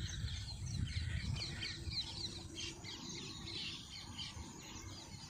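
Birds chirping and calling in a busy chorus of many short, quick notes, over a low rumble.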